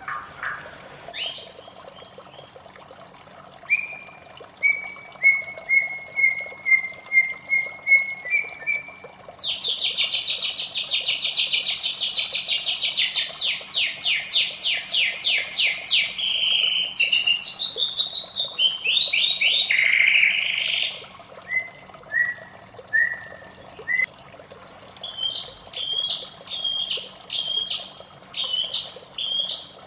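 White-rumped shama singing: a run of clear whistled notes, then a long, loud, fast trill, then varied phrases and a quick series of repeated short notes near the end. A faint steady hiss runs underneath.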